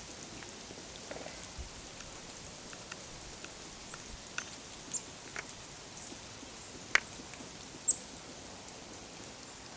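Small birds calling and moving around outdoors: scattered short chips and clicks over a faint steady hiss, with a sharp louder click about seven seconds in and another high chip about a second later.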